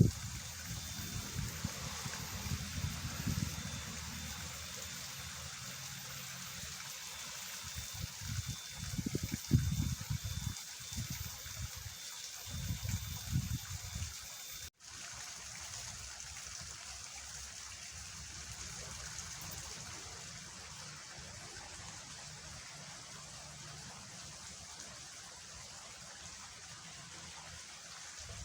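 Fast-flowing water rushing steadily in a rain-swollen ditch. Irregular low rumbles come and go during the first half, and the sound cuts out for an instant about halfway through.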